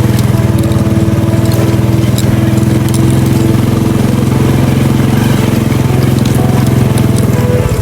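Small engine running steadily with a fast, even low pulse.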